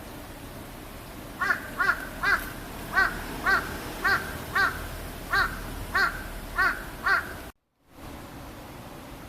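A bird calling repeatedly: about eleven short, evenly paced calls, roughly two a second, over steady outdoor background noise. The sound cuts out completely for a moment near the end.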